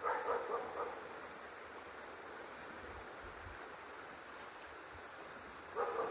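River water flowing steadily, with a dog's short barks in the first second and again near the end.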